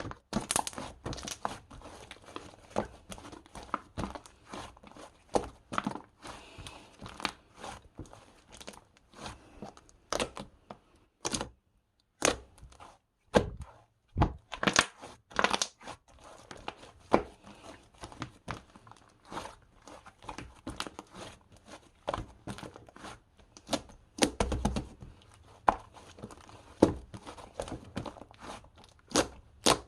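Irregular crinkling and tearing handling sounds: a dense run of short, sharp clicks and crackles, with one brief pause about a third of the way in.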